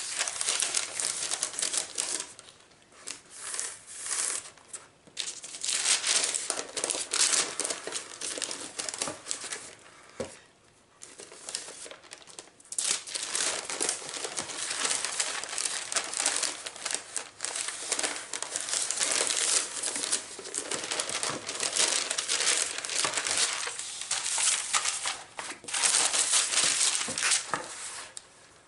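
Parchment paper crinkling and rustling as a paper template is handled and fitted around a lampshade, on and off, with a short lull about ten seconds in.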